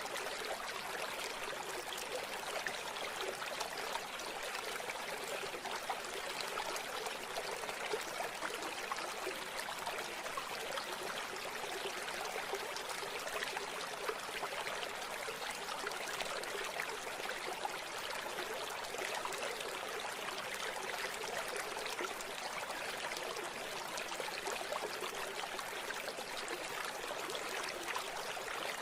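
River water flowing and babbling steadily, a constant rushing with fine splashing and trickling detail.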